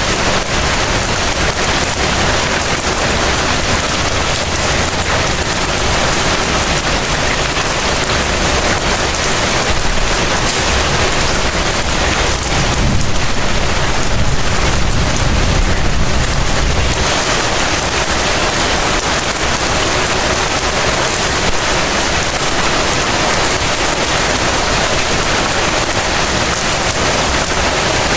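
Heavy rain falling steadily. A low rumble swells under it about ten seconds in and dies away by about seventeen seconds.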